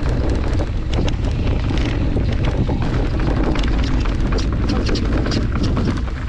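Wind buffeting a camera microphone on a moving mountain bike, with a steady low rumble and many small clicks and rattles from the bike rolling over rough trail.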